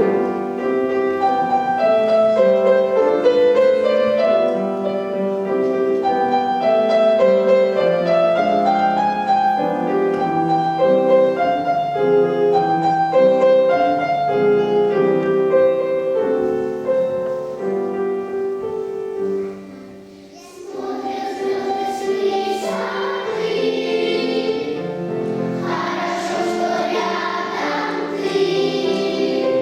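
Children's choir singing a song in unison, with a brief break between phrases about twenty seconds in before the singing resumes.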